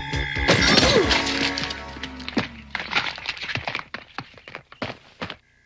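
Cartoon crash of a heavy load of nuts spilling about half a second in, followed by many scattered knocks of nuts clattering and bouncing that thin out and die away. Music plays under the start and fades.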